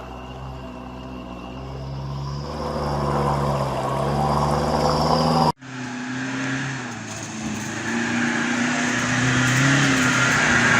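Pickup truck engines revving hard under load on a steep, slippery climb, the engine note wavering and rising as the throttle is worked. An abrupt cut about five and a half seconds in switches to another engine pulling hard, with a rising hiss of spinning tyres and mud that grows louder toward the end.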